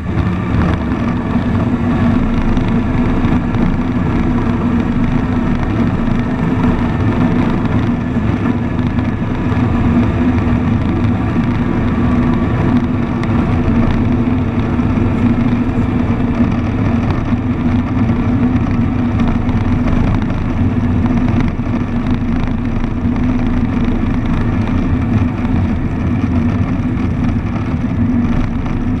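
Cessna 152's four-cylinder Lycoming O-235 engine and propeller running at a steady power setting, a constant drone whose pitch holds level.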